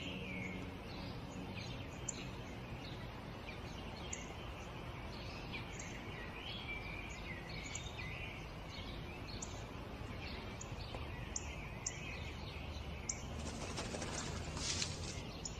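Small birds chirping in short repeated calls over a steady outdoor background noise, with a brief louder rustling noise near the end.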